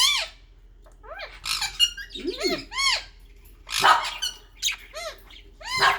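Budgerigars chirping: many short, arching high chirps in quick bunches, with a brief pause near the start.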